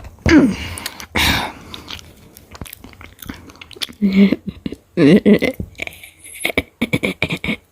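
A person chewing and biting crunchy food close to the microphone, in many short clicks that come fastest near the end. A few short voiced murmurs come about half a second, four and five seconds in.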